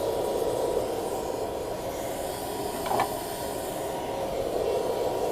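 Blower-fed charcoal furnace running: a steady rushing hiss of forced air and burning fuel, with a short sharper sound about three seconds in.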